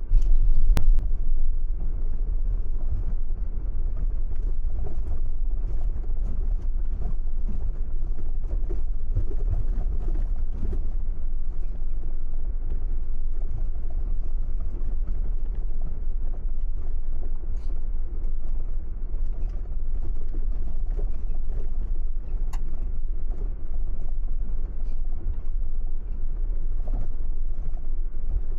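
Car driving: a steady low road rumble with scattered small clicks and rattles, starting abruptly and loud.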